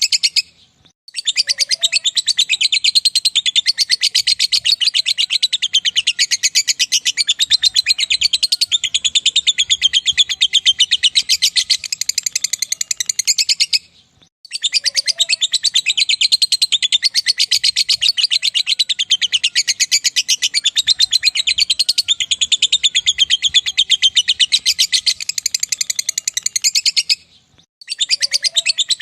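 Lovebird singing its long 'ngekek' song: a very rapid, unbroken high chatter lasting about 13 seconds at a stretch, with short breaks about a second in, around halfway and near the end.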